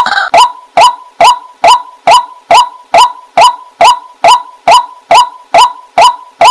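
Waterhen calling: one short, clipped note repeated very evenly, a little over two times a second.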